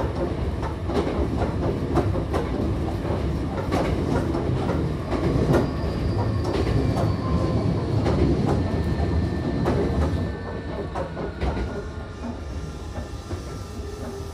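Hankyu Kyoto Line electric train running, heard from inside the passenger car: a steady low rumble with the clickety-clack of wheels over rail joints. It gets quieter about ten seconds in.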